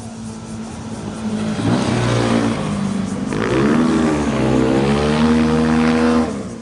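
A motorcycle engine accelerating past: the engine note climbs from about a second and a half in, dips briefly around three seconds in, climbs again, and cuts off abruptly just before the end.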